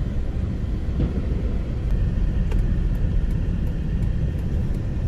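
A steady low rumble with a few faint, scattered pops of distant fireworks.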